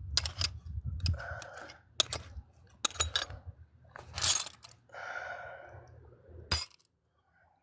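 Heavy breaths and sighs of effort mixed with several sharp clicks and knocks of hand tools on a seized engine bolt, over a low steady hum; everything cuts out abruptly near the end.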